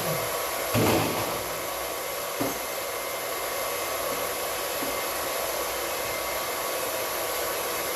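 Small electric pump running steadily while draining a water heater tank, with a knock about a second in and a lighter knock a second and a half later.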